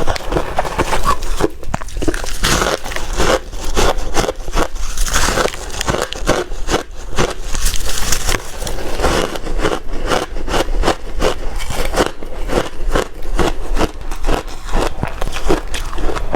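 A person biting and chewing ice, a steady run of crisp crunches, several a second.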